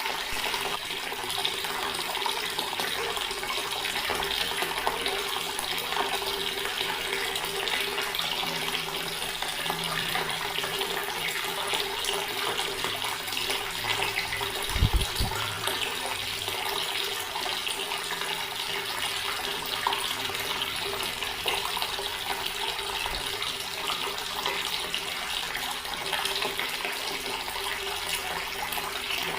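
Water running steadily from a tap into a stone basin, a continuous splashing flow. About halfway through there is a brief low thump.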